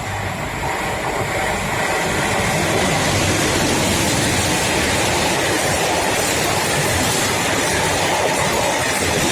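Freight train passing close by on the rails, the noise of the wagons growing louder over the first three seconds and then holding steady.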